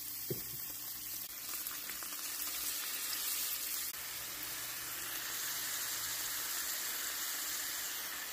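Quail breasts frying in hot peanut oil in a stainless steel skillet: a steady sizzle as they brown, with a brief knock near the start.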